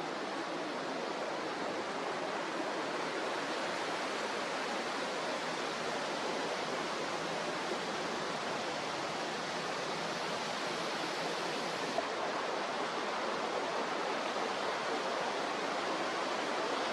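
Steady rushing noise of strong wind and sea, with no rise or fall.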